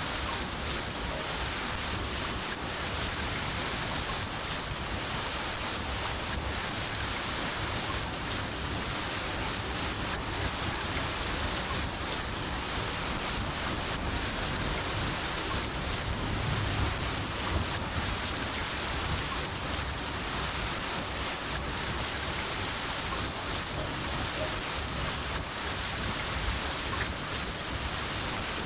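A cricket chirping steadily at about three chirps a second, breaking off briefly twice, over a steady hiss of falling rain.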